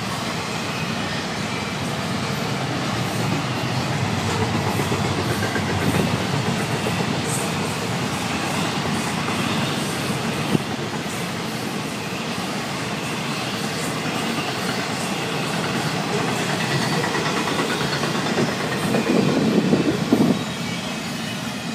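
Freight cars of a Florida East Coast Railway train rolling past: a steady rumble of steel wheels on rail, with scattered clicks over the joints. It swells briefly near the end.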